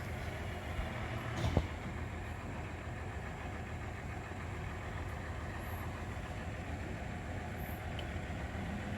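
Steady low background rumble with a single short knock about a second and a half in.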